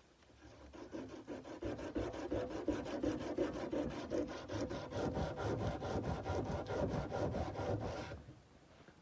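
Sandpaper rubbed by hand back and forth along a steel kukri blade, about five quick, even strokes a second, stopping abruptly near the end.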